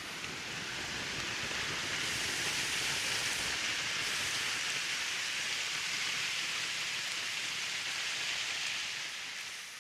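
Steady rushing hiss of a rain-swollen creek, fading out near the end.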